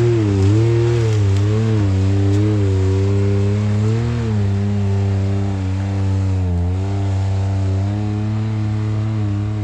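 Side-by-side UTV engine pulling hard up a steep rock climb, its revs rising and falling as the throttle is worked, with fewer changes near the end.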